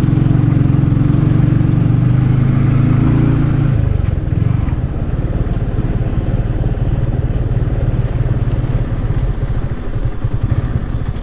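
Motor vehicle engine running on the road, heard from on board. A steady low engine note holds for about four seconds, then drops away into a rougher, uneven rumble.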